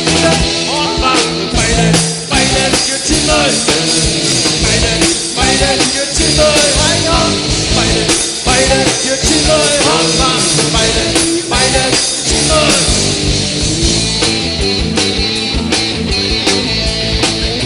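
Rock band playing an instrumental passage: drum kit and electric guitars, with a lead melody line sliding up and down in pitch.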